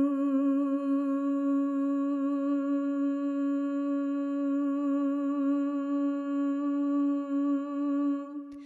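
A single voice humming one steady low note, held with a slight waver for about eight seconds as sound-healing toning, then stopping with a small click just before the end.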